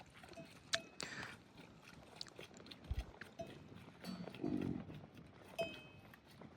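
Livestock bells clinking now and then among scattered knocks, with a short low animal call about four and a half seconds in.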